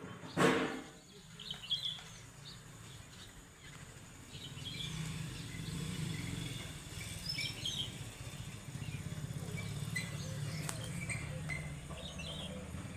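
Birds chirping in short, scattered calls over a steady low rumble. A loud sudden sound comes about half a second in.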